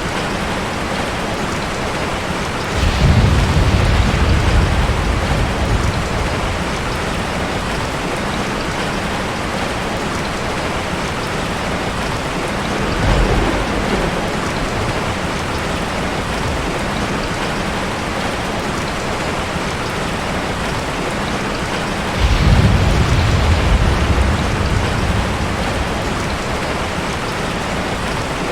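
Heavy rain falling steadily, with rolls of thunder: one about three seconds in, a shorter, fainter one near the middle, and another about twenty-two seconds in.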